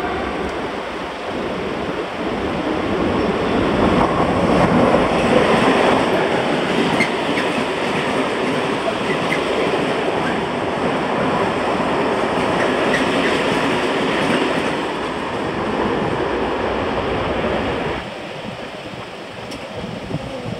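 Freight train passing close by over a level crossing: a steady rumble of wagon wheels on the rails that swells about five seconds in and drops off suddenly about eighteen seconds in as the last wagon clears.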